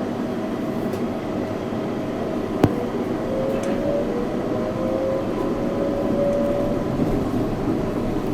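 Yurikamome 7300-series rubber-tyred automated train pulling away, its motor whine rising slowly in pitch as it gains speed over steady running noise. One sharp click sounds a little over two and a half seconds in.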